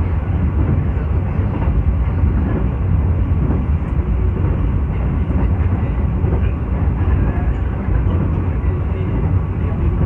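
Steady rumble of a passenger train running at speed, heard from inside the carriage.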